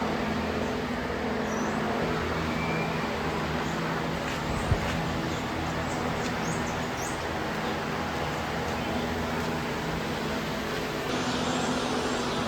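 Steady outdoor background noise with a low hum, over which small birds give faint, short, high chirps. A single sharp knock sounds near the middle.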